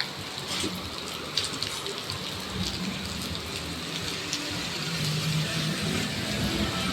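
Steady rain falling, with scattered individual drops striking nearby surfaces. A low steady hum comes in near the end.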